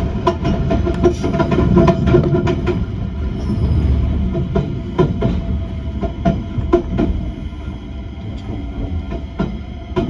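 Train running on the rails, its wheels clicking irregularly over rail joints under a steady low running rumble. The sound grows quieter and the clicks sparser over the second half, as if the train is slowing.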